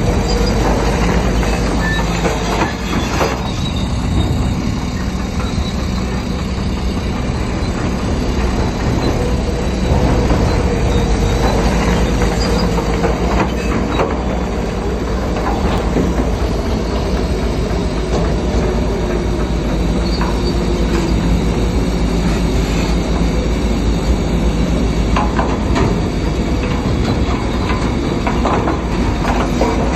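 Bulldozer working: its diesel engine runs steadily under load while its steel tracks clank and squeal.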